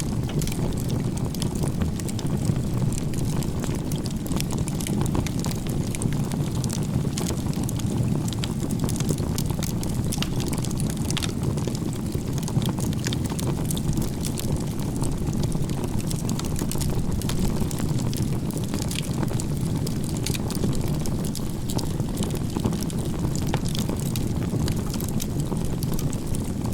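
Firewood fire burning: frequent sharp crackles and pops over a steady low rushing of the flames.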